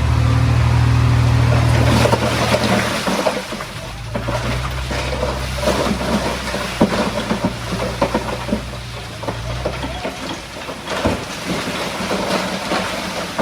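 Heavy diesel earthmoving machinery running with a deep engine tone that drops about two seconds in and stops about ten seconds in, with irregular clattering of stone and rock throughout.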